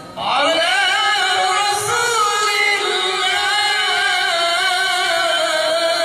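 Melodic Qur'an recitation (tilawah) by a qari: one voice begins just after a brief pause and sustains a single long phrase, its pitch wavering in ornamented turns.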